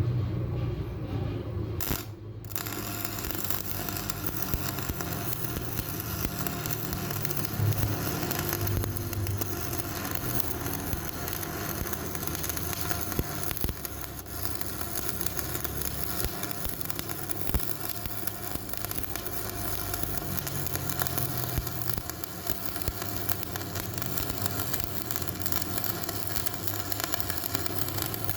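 Electric arc welding on a cracked steel truck wheel rim: the arc's steady crackling sizzle, starting about two seconds in.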